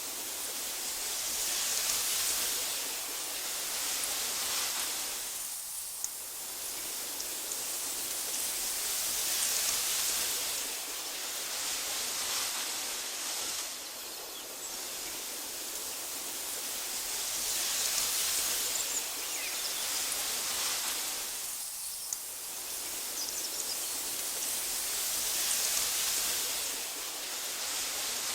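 Wind blowing through tall meadow grass, a soft rushing that swells and eases in gusts about every eight seconds, with a few faint high chirps and ticks.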